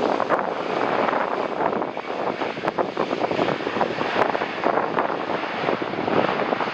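Jet airliner on landing approach, a steady rushing engine noise, with wind buffeting the microphone.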